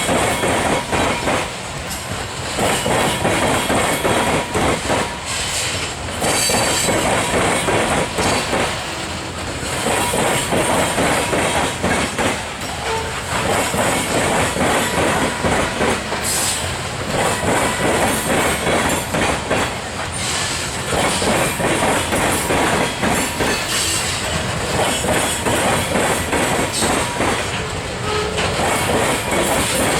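Freight train cars rolling past at close range, steel wheels clacking over rail joints in repeated groups as each car goes by.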